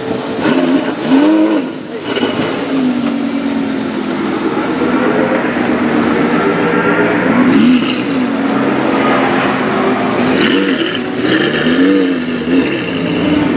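Lamborghini Gallardo V10 in the Batmobile replica idling with a deep, steady exhaust note, blipped several times so the pitch briefly rises and falls.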